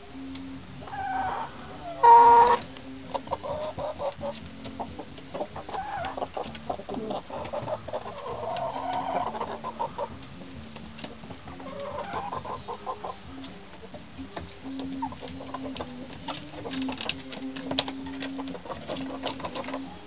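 Hens clucking on and off, with one loud squawking call about two seconds in.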